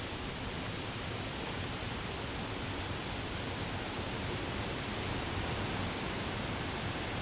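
Rain falling steadily, an even hiss without single drops or knocks standing out.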